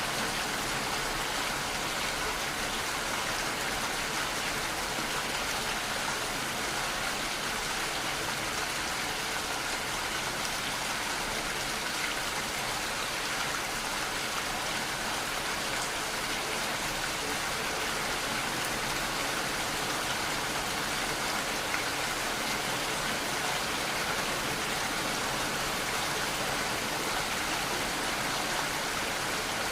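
Steady heavy rainfall, an even hiss of falling rain with no breaks or changes.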